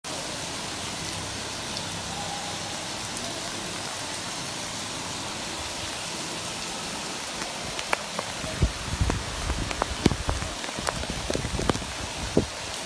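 Heavy rain falling steadily, an even hiss. From about eight seconds in, a run of sharp knocks and low thumps sounds over the rain.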